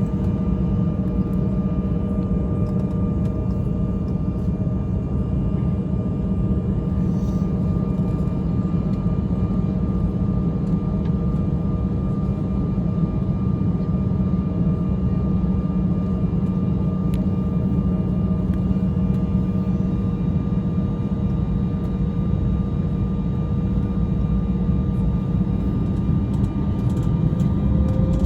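Cabin noise of an Embraer 175 on the ground at low thrust: a steady rumble from its turbofan engines with a constant whine over it.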